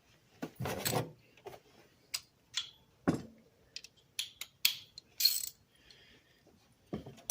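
Metal hand tools clinking and clattering: a string of separate sharp clicks and knocks with a couple of short rattles, with no even rhythm.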